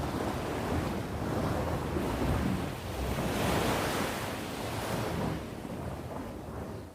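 Sea waves breaking and washing in, one swell of surf rising to its loudest about halfway through and then ebbing away.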